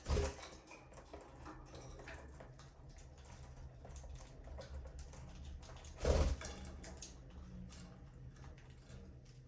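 Budgies in an aviary making many small clicks and taps, the kind beaks and feet make on perches and cage wire, over a low steady hum. There are two louder knocks, one at the start and one about six seconds in.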